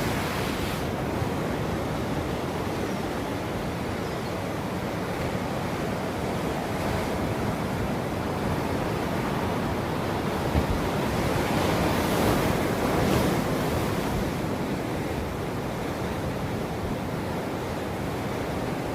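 Ocean waves breaking and washing up a beach, a continuous rushing surf, with one wave swelling louder about twelve seconds in.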